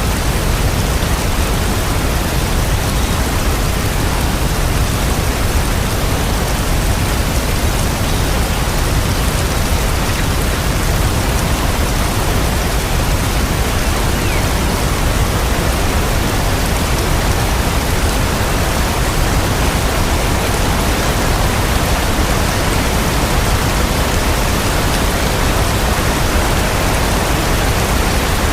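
Steady, dense rain falling, an even hiss with no distinct drops or thunder.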